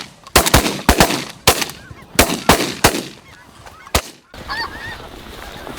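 A rapid volley of shotgun blasts, about ten shots from several hunters in the first four seconds, with snow geese honking throughout; after the last shot the flock keeps calling.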